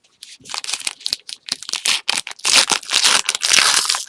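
Crinkling of a trading-card pack wrapper being handled and torn, in irregular crackles that grow busier about halfway through.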